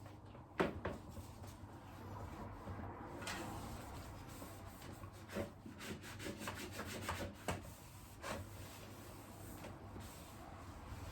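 Hand cleaning of a disassembled electric fan: a cloth rubbing over the fan's plastic parts, with scattered light clicks and knocks as the parts are handled.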